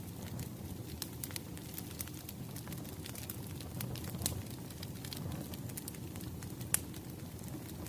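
Wood fire crackling: a steady low rumble of burning logs with scattered sharp pops. One louder pop comes about halfway and another near the end.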